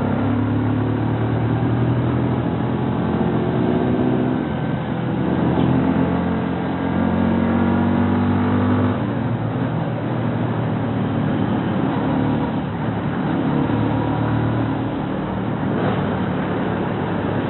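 Bajaj Rouser NS125 FI motorcycle's single-cylinder engine running on the move, its note holding steady, then dropping off about nine seconds in and picking up again.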